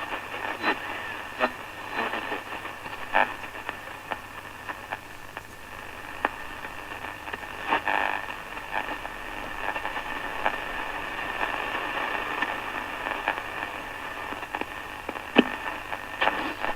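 Shortwave static from a 1960s Ultra Model 6146 transistor radio's loudspeaker while it is tuned between stations. It is a steady hiss with scattered crackles and clicks and a faint low hum underneath.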